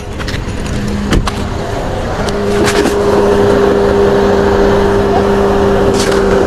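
Engine cooling fan of a 2015 Mercedes-Benz GLK running at high speed with the engine idling and the AC on: a loud, steady rush with a steady hum that grows louder about two seconds in, plus a few light clicks. The fan blowing this high with the AC on is the fault the customer complained of, and it is still there.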